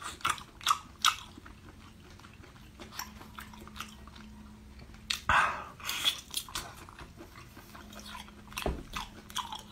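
Wet chewing of a cooked octopus head: soft squelches and mouth clicks at irregular intervals, with a louder cluster about five to six seconds in.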